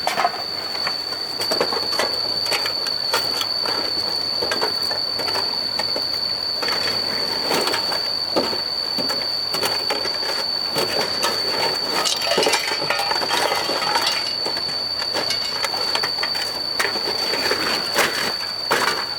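Irregular clattering, scraping and rustling of debris being handled, over a steady high-pitched whine.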